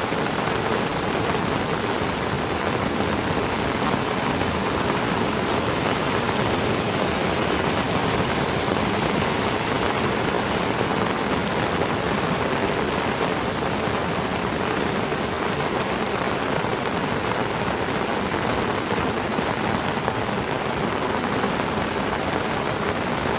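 Heavy tropical rain falling steadily, a dense, even hiss of drops with no let-up.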